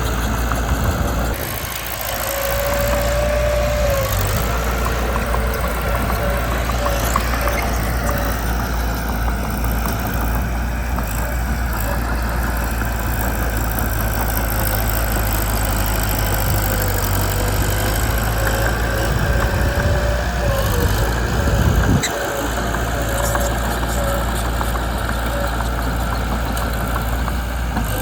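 Mitsubishi BD2 bulldozer's diesel engine running steadily, with a thin wavering whine above it for much of the time.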